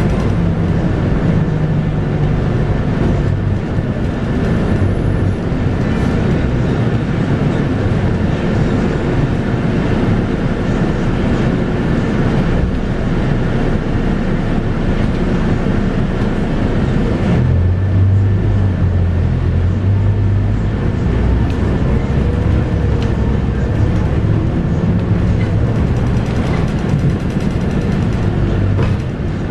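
Scania K230UB bus running on the road, its 8.9-litre five-cylinder Scania DC9 diesel and ZF Ecomat six-speed automatic heard from inside the bus, with steady road and body noise. The engine note deepens about 17 seconds in.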